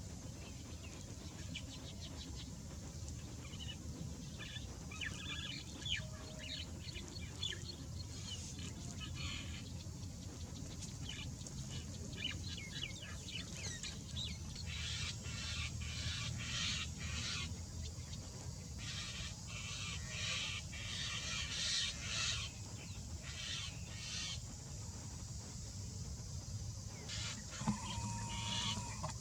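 Birds calling in bursts of rapid short chirps, busiest in the middle and again near the end, over a steady low rumble.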